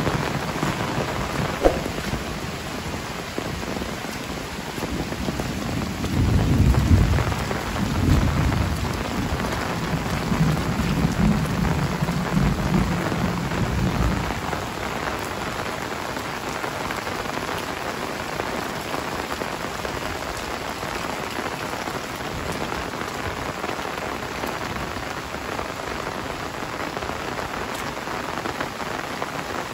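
Heavy rain falling steadily on roofs, foliage and a wet lane. A low rumble swells about six seconds in and fades out around fourteen seconds.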